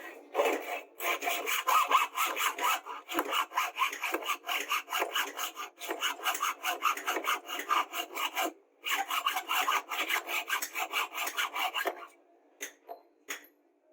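A hand tool worked in rapid back-and-forth scraping strokes, about four a second, with a short pause about two-thirds of the way through. It stops near the end, leaving a few light taps.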